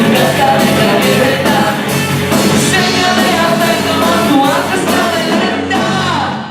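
Rock band playing live with a singer, the final bars of a pop-rock song: drums, guitars and voice up to about five seconds in, then a held closing chord that stops at the end.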